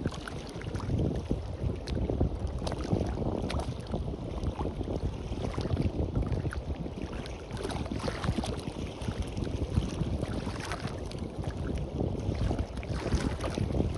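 Wind buffeting the microphone in a low, gusty rumble over the wash of small waves on a beach, with light crackling spray.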